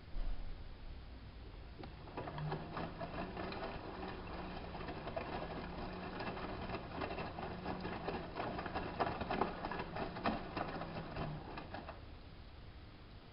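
hanseatic HWM814A3D washing machine turning its drum during a wash: a steady motor whirr with dense clicking and tumbling from the load, running for about ten seconds and then stopping. A low thump comes right at the start.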